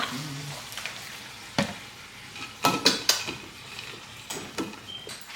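Kitchen clatter: a few sharp clinks and knocks of dishes and utensils being handled, the loudest cluster about three seconds in.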